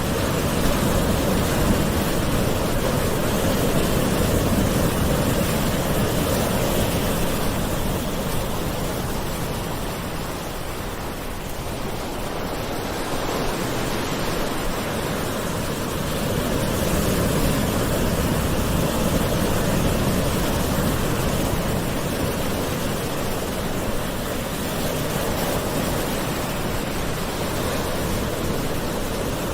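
Gentle ocean waves washing onto a shore: a continuous rushing wash of surf that slowly swells and eases, dipping around a third of the way in and again near the end.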